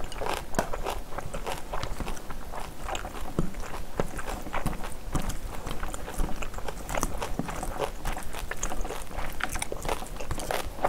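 Close-miked chewing of a mouthful of rice mixed with spicy stir-fried pork, with a spoon clicking and scraping in a ceramic bowl as more rice is mixed and scooped.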